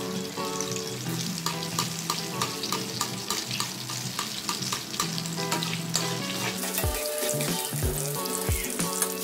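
Eggplant omelette sizzling and crackling as it shallow-fries in hot oil in a wok, under background music with held notes. A thudding beat joins the music near the end.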